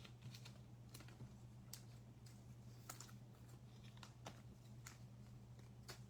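Faint, irregular light clicks, roughly one or two a second, over a low steady hum.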